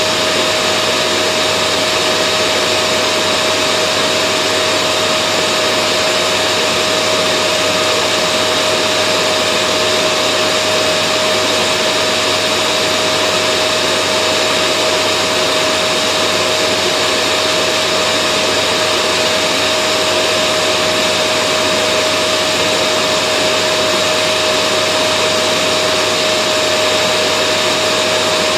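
Vacuum cleaner running steadily, a continuous whooshing hum with a fixed motor whine and no change in speed.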